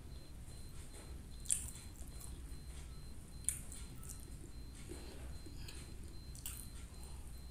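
Close-up mouth sounds of a person chewing plain cooked white rice: soft wet smacks and clicks, two sharper ones about a second and a half and three and a half seconds in.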